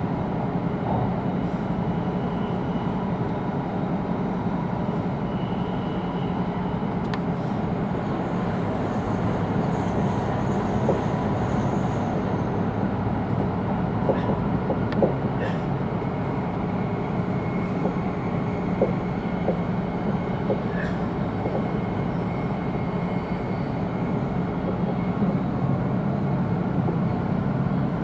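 E2-series Shinkansen heard from inside a passenger car, running steadily: an even rumble of wheels on rail, with a few short clicks in the second half.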